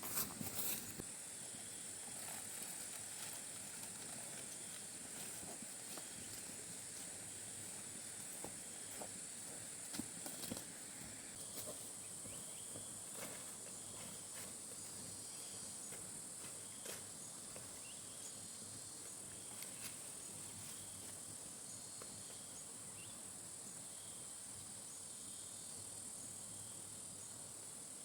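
Insects droning steadily in a high, even pitch, with a few scattered clicks and rustles, loudest near the start and about ten seconds in.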